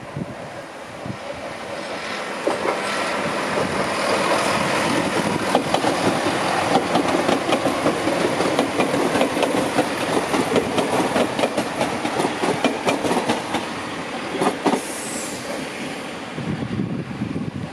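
Chiltern Railways train passing, its wheels clicking rapidly over the rails. The sound builds over the first few seconds and eases near the end, with a brief high wheel squeal shortly before it fades.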